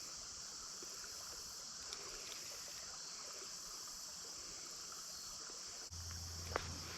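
Steady creekside ambience: water running in the creek under a high, even insect chorus. Near the end comes a single light plop, a leaf landing on the water behind the angler that sounds like a fish striking.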